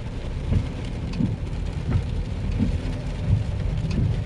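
Heavy rain on a car, heard from inside the cabin: a steady low rumble with irregular dull thumps and scattered ticks of drops.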